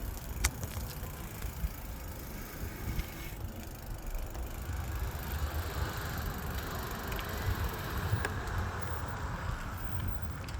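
Street traffic noise, with a low rumble of wind on the microphone; a louder hiss of passing traffic swells from about halfway through.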